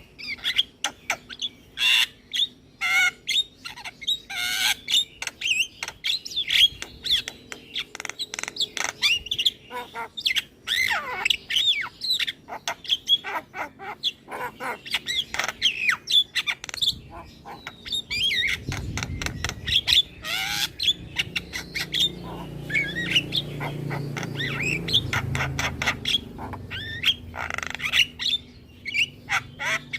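Javan myna (jalak kebo) calling continuously in a rapid run of harsh squawks, clicks and whistled notes. A low rumble sits beneath the calls for several seconds in the second half.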